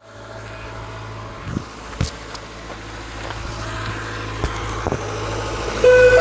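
A steady low hum like a motor vehicle running, with a few sharp knocks, growing slowly louder; a chiming tune starts near the end.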